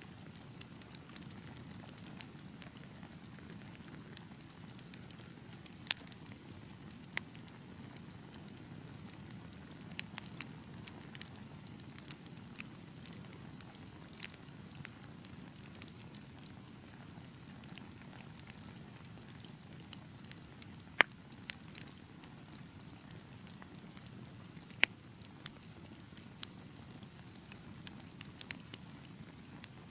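Fire in a fireplace crackling: a steady low rumble of burning with irregular sharp pops and snaps, a few of them much louder than the rest.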